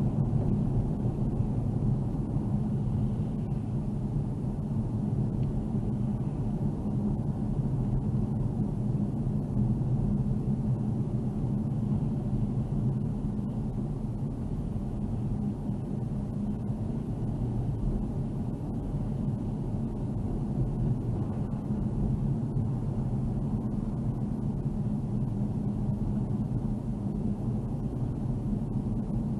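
A car driving: the steady low rumble of engine and tyre road noise, with an even hum.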